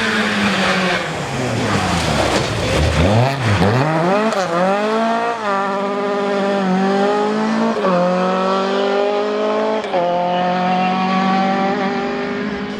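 Rally car engine at full throttle, revving up and down, then accelerating hard: its pitch climbs and drops sharply at three upshifts in the second half. A rushing noise, possibly tyres, accompanies it at the start.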